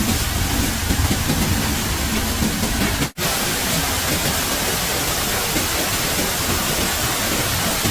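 Steady rushing hiss of water. It breaks off for an instant about three seconds in, then carries on evenly.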